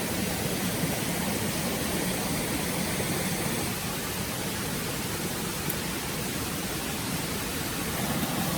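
Steady rushing of a flowing forest stream.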